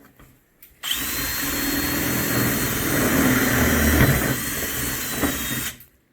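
Electric drill running for about five seconds with a steady high whine, starting suddenly about a second in and stopping near the end.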